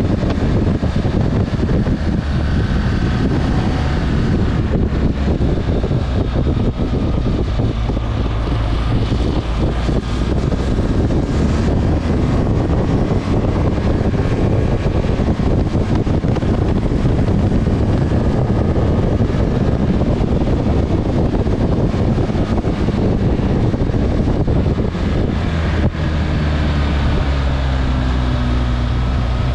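Motorcycle engine running while riding, with wind buffeting the microphone. About three-quarters of the way through, the engine settles into a steadier tone.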